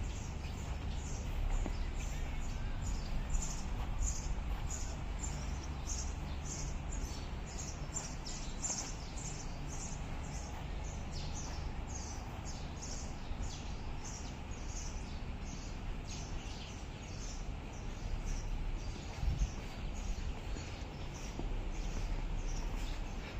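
Small birds chirping in short, rapid, repeated calls over a steady low rumble.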